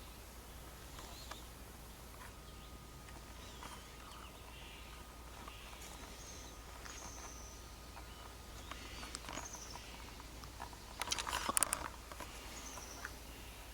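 Faint, high chirps that fall in pitch, repeating about once a second like small birds calling, over a low hum. About eleven seconds in there is a brief burst of rustling clicks.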